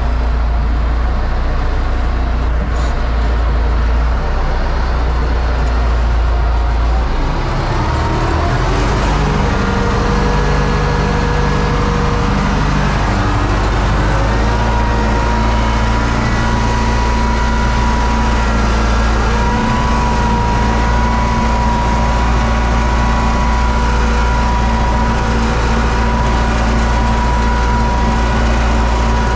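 Universal U650 tractor's four-cylinder diesel engine running steadily. Its note shifts about seven seconds in, and a thin steady whine joins about halfway through.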